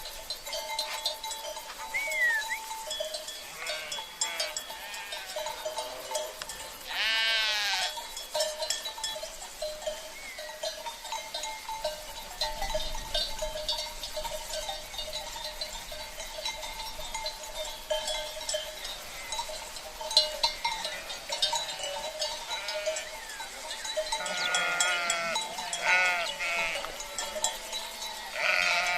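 A flock of sheep, their cencerro bells clinking and ringing steadily as they move. One loud bleat about seven seconds in, and several more bleats near the end.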